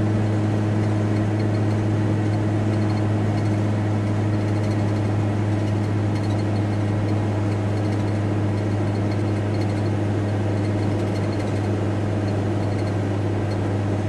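Volkswagen T4 Transporter van cruising, heard from inside the cab: a steady engine and road drone with a constant low hum.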